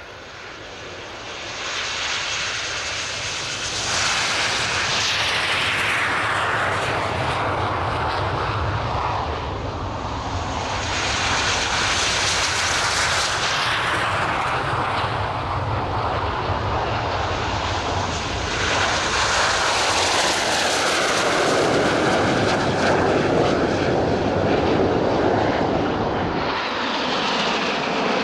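Jet noise of a formation of BAE Hawk T1 jets flying past. It builds over the first few seconds, then swells and drops in pitch as the jets go by, about three times.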